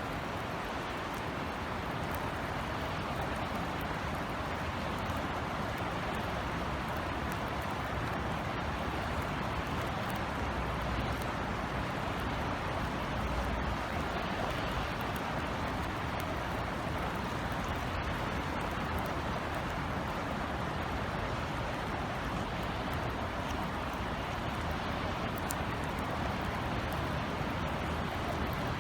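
Steady rain falling as an even hiss, with scattered faint drop ticks and a low rumble underneath that swells briefly around the middle.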